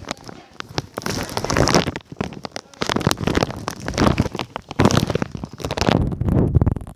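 A bag rustling and crinkling right against the microphone in irregular crackling bursts as the camera is wrapped in it to keep it out of the rain.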